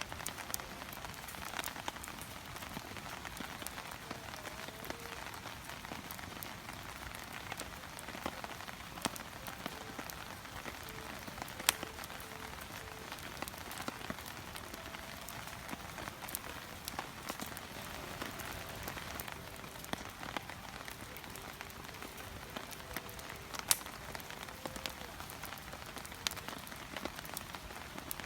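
Wood fire burning in a Coleman Fire Disc fire pit, crackling steadily with scattered sharp pops, two of them louder, about twelve seconds in and near the end.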